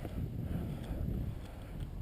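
Wind buffeting the microphone, an uneven low rumble that rises and falls.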